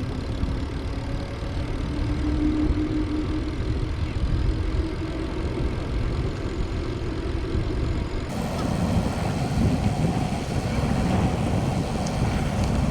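Wind rumbling on the microphone of a camera on a moving bicycle, with a faint steady hum; about eight seconds in the sound turns fuller and brighter.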